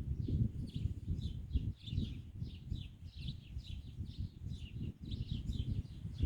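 Small birds chirping continuously: short, high, downward-slurred chirps, about three or four a second, over a steady low rumbling noise.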